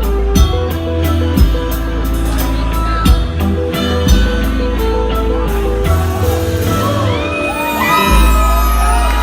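Live rock band playing an instrumental passage, with a steady bass line and drum hits about once a second. From about seven seconds in, gliding pitched sounds rise over the band.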